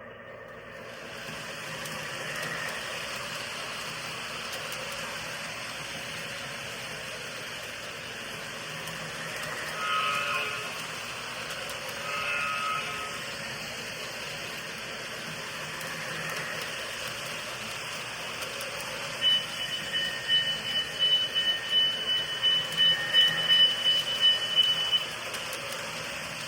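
O gauge model train set running along its track with a steady rolling rumble. Its sound system gives two short horn toots about ten and twelve seconds in. From about two-thirds of the way through, a steady high electronic tone sounds under a quick, pulsing ringing until the end.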